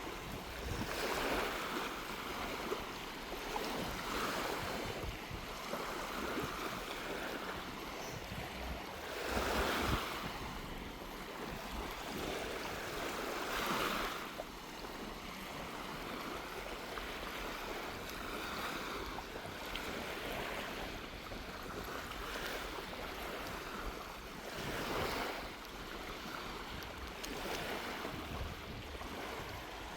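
Small waves washing up on a sandy shore, the surf rising and falling in a wash every few seconds, with sea breeze rumbling on the microphone.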